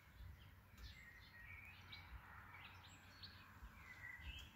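Faint birdsong: a run of short, high chirps and quick falling whistles from small birds, over a low rumble.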